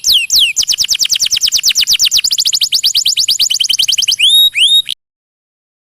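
Domestic canary song: a fast trill of high, clean downward-sweeping whistles, about ten a second, ending in a few rising-and-falling notes before it cuts off abruptly near the end.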